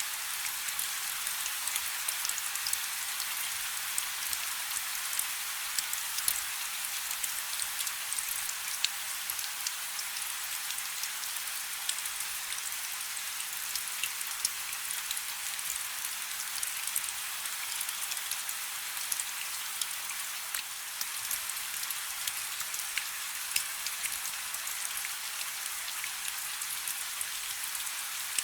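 Steady rain falling on a river: a dense, even hiss with many individual drops ticking through it.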